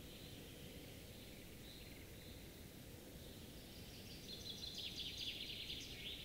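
Woodland birdsong: faint, short chirps, then about four seconds in a louder, rapid trilling song phrase lasting nearly two seconds, over a low background hiss.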